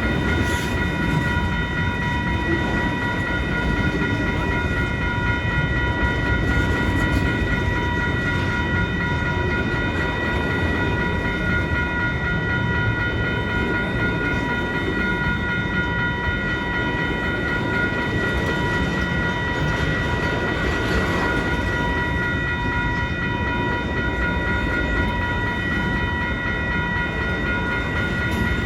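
Canadian National mixed freight train rolling past: a steady rumble of cars on the rails, with several high, steady ringing tones held over it throughout.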